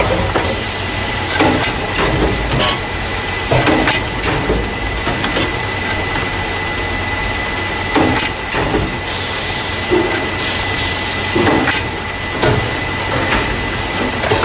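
Carton case packer, the machine that loads paper juice and milk cartons into plastic crates, running: a steady hum with a thin constant whine, irregular clanks and knocks of the mechanism, and a hiss about nine seconds in.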